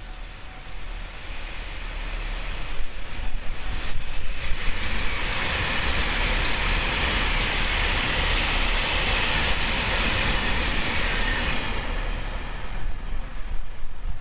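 A train passing close by: the rushing noise of its wheels on the rails swells over the first few seconds, holds for about six seconds, then fades away, over a steady low rumble.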